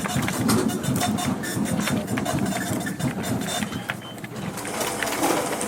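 Office ambience: a printing machine running with dense, rapid clicking and short high tones over a low background murmur.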